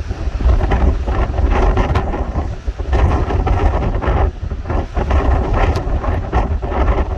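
Strong wind buffeting the microphone in loud, uneven gusts, with a heavy low rumble.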